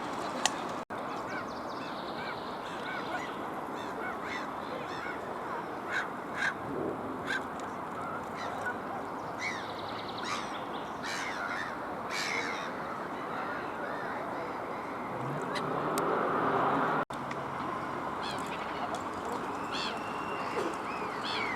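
Black-headed gulls and Eurasian coots calling on a lake: many short, sharp calls scattered irregularly over a steady background hiss. About three-quarters of the way through, a louder rushing noise swells and then cuts off abruptly.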